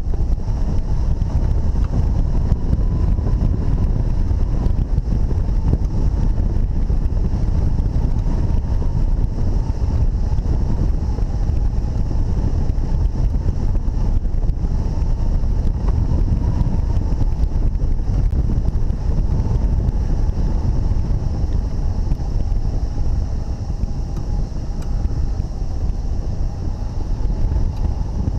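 Wind rushing hard over the camera microphone in flight under a hang glider, a steady loud roar heaviest in the lows. A faint steady high tone sits underneath.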